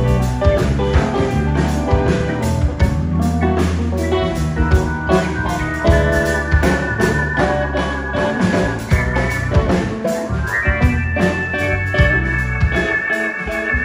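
Live blues band playing an instrumental passage: drums keep a steady beat under guitar, bass and keyboard, with a held high note entering about ten seconds in.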